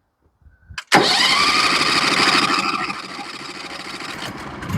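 Norwood HD36v2 sawmill's gasoline engine starting: it catches abruptly about a second in, revs up, then settles to a lower, steady run.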